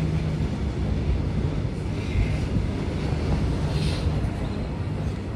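Freight train rolling past: a steady low rumble of wagons on the rails.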